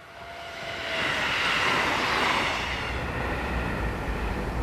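A JR Hokkaido 711 series electric train passing close by, its wheels on the rails swelling to a loud peak about a second in and easing off a couple of seconds later. A low rumble takes over near the end.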